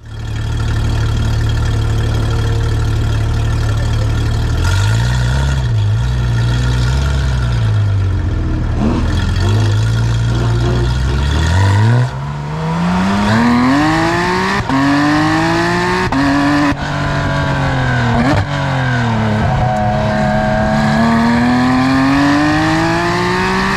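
Porsche 911 GT3 RS (991.2) 4.0-litre naturally aspirated flat-six with modified headers, heard at the exhaust. It runs steadily at first and is blipped briefly a few times about five seconds in. From about eleven seconds it pulls away under acceleration, the pitch climbing and dropping back at each gear change.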